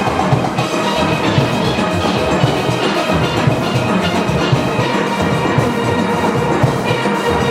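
Steel band playing: many steelpans sounding melody and chords over drums and percussion keeping a steady beat.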